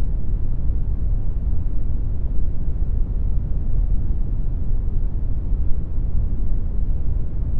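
Brown noise generated in Audacity: a steady, deep hiss, strongest in the bass and thinning out toward the highs, without any change.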